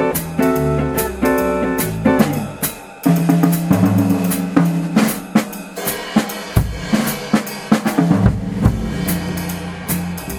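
Jazz quartet playing a swing tune: a guitar-led passage gives way, about three seconds in, to busy drum kit playing on snare, bass drum and cymbals, as in a drum break.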